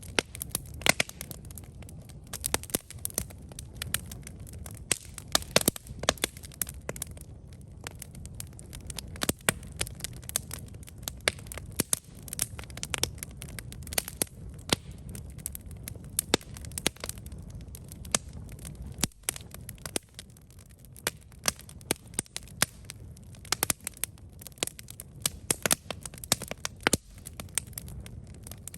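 Wood campfire burning, with frequent irregular sharp crackles and pops over a low, steady rumble of the flames.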